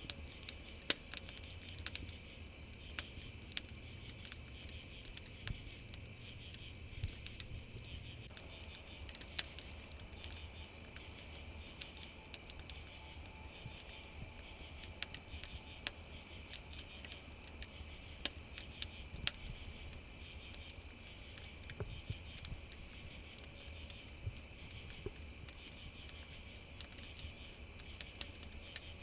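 A chorus of crickets chirring steadily and high, over a campfire crackling with scattered sharp pops.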